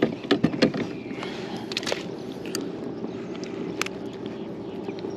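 Sharp knocks and clicks of a bass being brought aboard and handled in a fishing kayak: a cluster in the first two seconds, then a few scattered ones, over a steady low hum.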